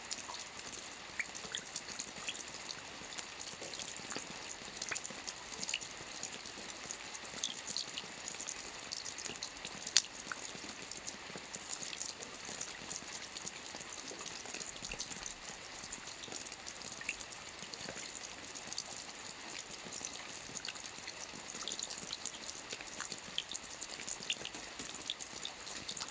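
Steady rain falling, an even hiss with many separate drops ticking close by, and one sharper drop about ten seconds in.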